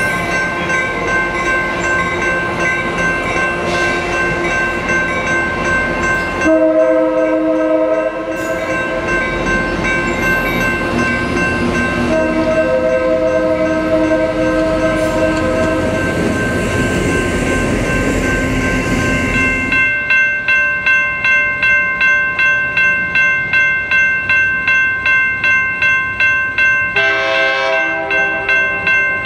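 Coaster double-deck commuter train rolling past at close range, sounding its horn twice, a short blast and then a longer one, before the F40PH diesel locomotive pushing at the rear goes by with its engine loud. Then a grade-crossing bell rings in steady strokes, and an approaching train sounds its horn near the end.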